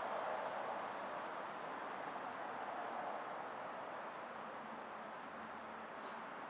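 Steady outdoor background noise with faint, short, high-pitched bird chirps about once a second.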